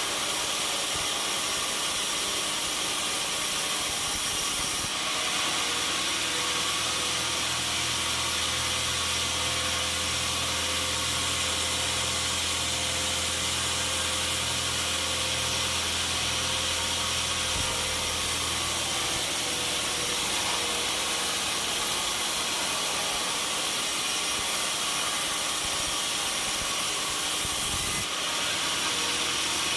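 Sawmill saw running through a log: a loud, steady hissing noise, with a low machine hum underneath for several seconds in the middle.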